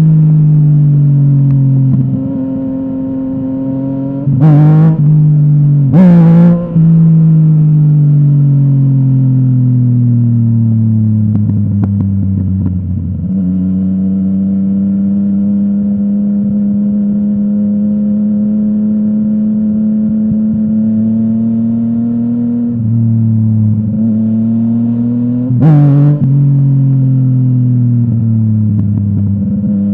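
Yamaha MT-09 three-cylinder engine through a full Akrapovic exhaust, under way: the engine note falls slowly as the bike slows, then holds steady through the middle. There are short, sharp revs about four and a half and six seconds in and again near the end.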